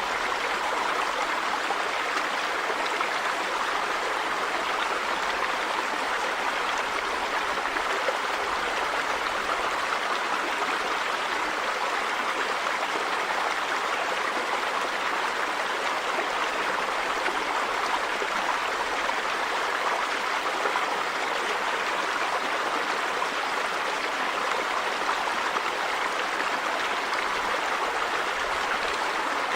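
River water running over stones, a steady rushing with no breaks.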